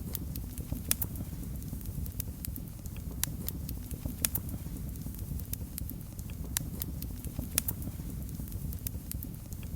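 Wood fire crackling in a fireplace: a steady low rumble of the flames with irregular sharp pops and snaps, several a second.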